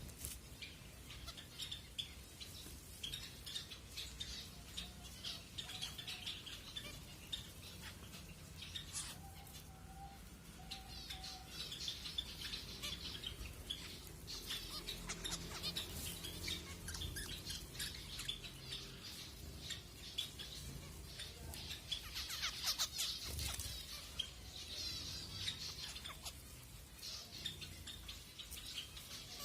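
Zebra finches calling: a busy stream of short, high chirps and beeps from several birds, growing thicker and louder about three-quarters of the way through.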